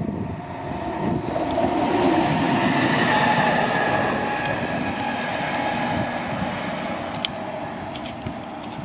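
Renfe freight train of steel-coil wagons, hauled by a class 256 electric locomotive, passing close by: a steady rolling rumble of wheels on rail that is loudest two to three seconds in and then slowly eases off.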